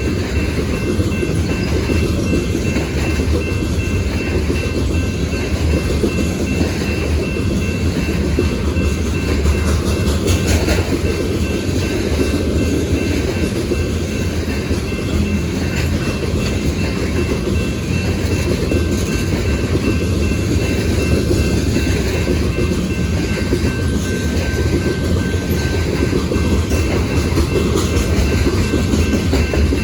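Freight train rolling past, a steady heavy rumble of the cars with occasional clicks of wheels over the rail joints.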